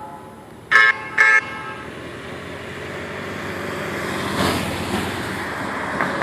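A vehicle horn tooting twice in quick succession, each blast short and loud, followed by a steadily growing rush of passing vehicle noise.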